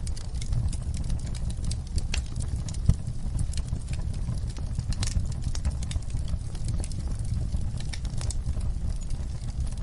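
Wood fire burning in a fireplace: a steady low rumble of the flames with irregular crackles and pops of burning wood, one sharper pop about three seconds in.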